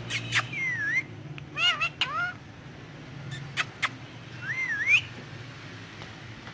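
Ringneck parrot chirping and whistling: sharp short chirps mixed with several curving whistles, the last one rising, then stopping about five seconds in.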